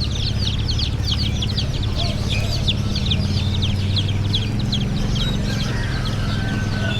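A crowd of baby chicks peeping, many short, high, falling peeps overlapping without a break, over a low steady hum.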